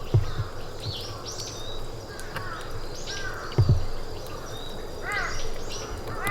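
Several wild forest birds calling, with many short, thin, high arched notes throughout. From about five seconds in, a run of lower, harsher repeated calls joins them. Two dull low thumps are heard, one at the start and one a little past midway.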